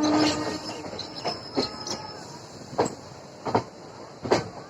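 Maurya Express passenger train rolling into a station, its wheels clacking sharply over rail joints about five times over a steady rumble. A faint high wheel squeal runs through the first couple of seconds.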